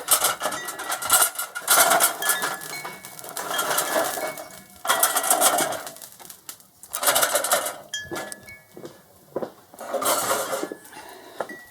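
Charcoal being poured into the steel firebox of a cabinet smoker, clattering and clinking against the metal in about six separate bursts with short pauses between.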